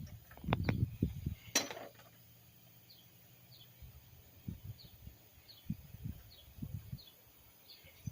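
Dull low thumps of work handling and one sharp metallic clink with a short ring about a second and a half in, while a bird repeats a short, high, falling chirp every half second to second.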